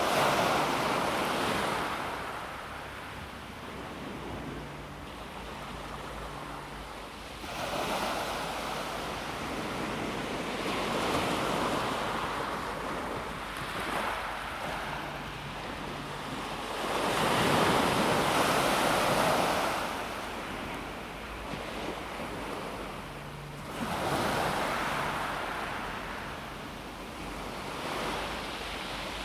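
Calm sea waves breaking on a pebble beach. Each wave surges in with a hiss, about five times, some five to ten seconds apart, then ebbs between breaks.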